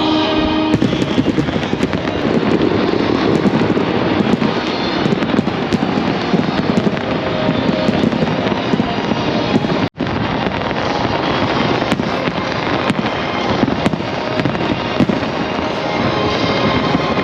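Large aerial fireworks display: a continuous barrage of shells bursting and crackling, with many sharp bangs, over music playing along with the show.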